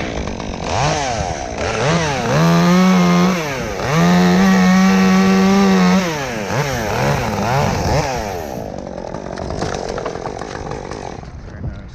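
Chainsaw revved up and down in quick blips, then held at full throttle twice for a second or two, as in a cut through the dead tree's wood, before easing off and fading near the end.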